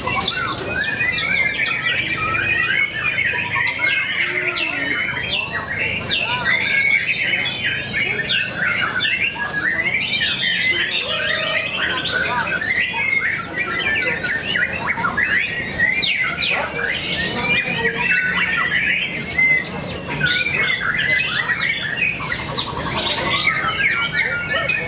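Many caged songbirds singing and chattering at once, a dense, unbroken tangle of overlapping whistles, trills and squawks.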